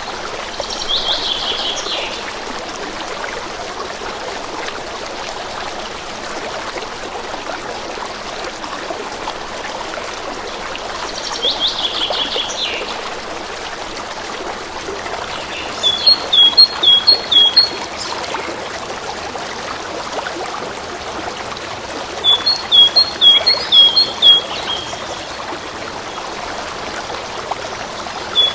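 A stream trickling steadily, with a bird singing over it: two short rapid trills, then three louder phrases of about five clear repeated notes each.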